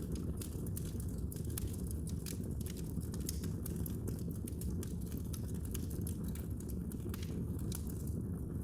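Wood fire burning in a fireplace, crackling: frequent irregular sharp pops and snaps over a steady low rumble.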